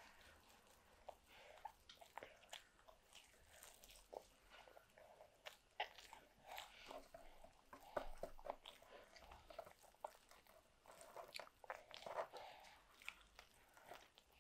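Faint, close sounds of a toddler chewing crumpet: scattered soft clicks and wet mouth noises.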